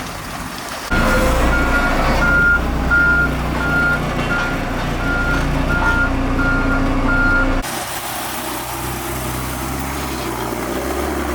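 Construction vehicle's reversing alarm beeping at about one and a half beeps a second over a low engine running. It cuts off abruptly after about seven and a half seconds and gives way to a quieter engine sound.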